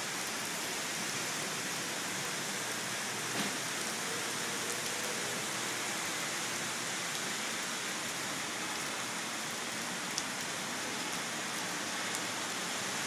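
Steady rain falling on a city street, an even hiss without a break.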